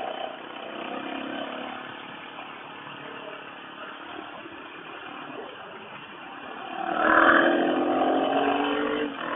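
Suzuki DR650's single-cylinder engine running while the bike is ridden, then revving up sharply about seven seconds in as the bike accelerates, louder for about two seconds before easing off.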